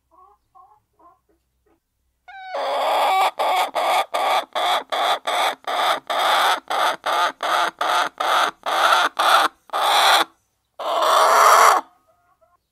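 Hen cackling loudly: a few faint soft clucks, then a long run of short, harsh repeated calls, about three a second, ending in a longer drawn-out call.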